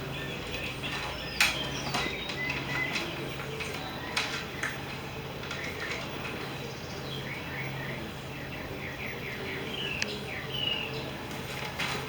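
Small birds chirping: short high chirps, with a quick run of them about seven to nine seconds in. A few sharp clicks and a low hum that comes and goes sit beneath them.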